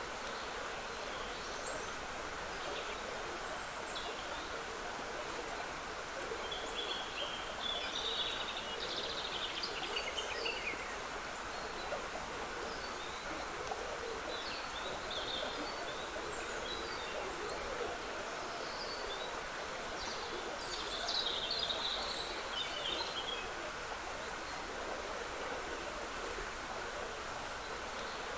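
Woodland stream trickling steadily, with small songbirds singing over it in two main bursts of song and a few scattered calls.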